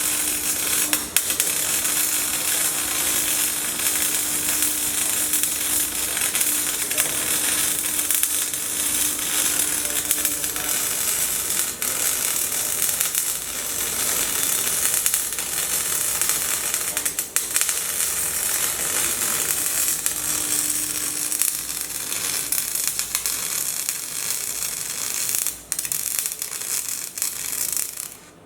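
Electric arc welding: the arc crackles and sizzles steadily through a long weld bead, then cuts off suddenly near the end as the arc is broken.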